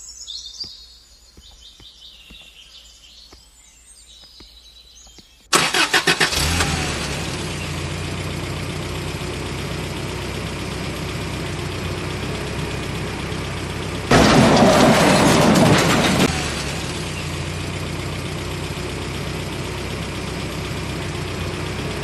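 Car engine starting about five and a half seconds in with a quick stutter, then running steadily, with a louder rev lasting about two seconds in the middle. Faint bird chirps come before the start.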